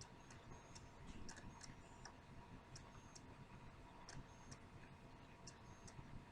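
Near silence: room tone with faint, irregularly spaced light ticks and clicks.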